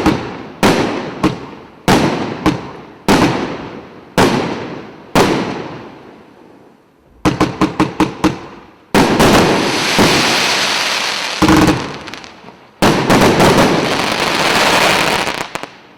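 Multi-calibre firework cake (combination battery) firing. Single shells burst about once a second, then a quick run of five reports comes, then two long stretches of dense crackling bursts as the finale volley and its crackling glitter go off.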